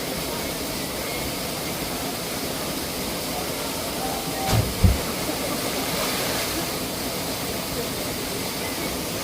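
Steady rush of a waterfall and fast-flowing water, with two short low thumps about halfway through.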